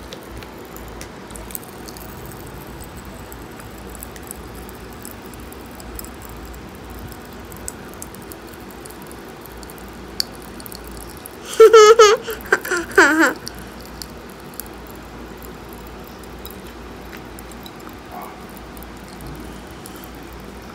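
Popping candy crackling and fizzing faintly in a child's open mouth, with scattered tiny clicks. About halfway through comes a loud wordless vocal sound from the child, in two parts over about two seconds, wavering in pitch.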